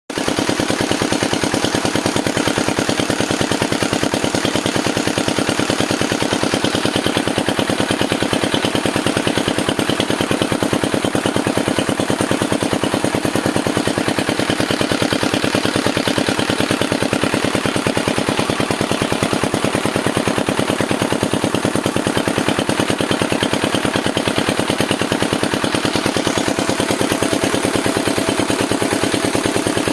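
Single-cylinder diesel engine of the kind used as a 'shallow pump' in Bangladeshi villages, running steadily with rapid, even exhaust beats while it drives a paddy thresher.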